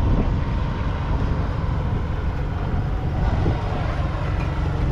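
Massey Ferguson 9S 425 tractor's 8.4-litre six-cylinder diesel engine running steadily.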